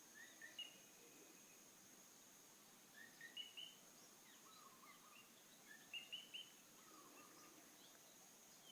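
Faint bird calls: three clusters of short chirps, about three seconds apart, with a few lower notes between them, over a thin steady high tone.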